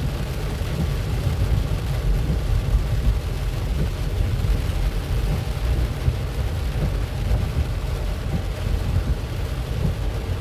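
Steady low rumble of a car's engine and tyres heard from inside the cabin while driving, with rain on the car.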